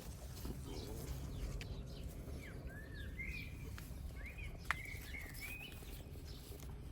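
A songbird sings short warbling whistled phrases in two groups in the middle, over a steady low rumble. There is a single sharp click a little past the middle.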